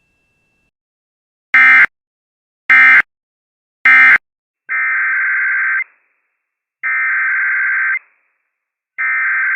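Emergency Alert System digital data bursts, the buzzy two-tone screech of an EAS broadcast. Three short bursts mark the end of one alert, and shortly after come three longer bursts that open the header of the next alert.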